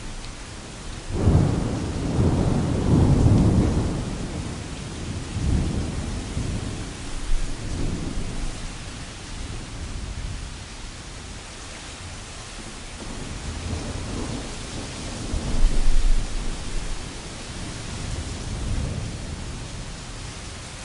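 Steady rain pattering on tent canvas, with distant thunder rolling in about a second in and rumbling for a few seconds. Smaller rumbles follow, and another deep roll of thunder comes past the middle.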